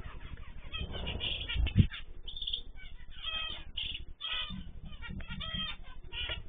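Several caged ornamental birds calling and chirping at once in quick, overlapping notes, with a single knock a little under two seconds in.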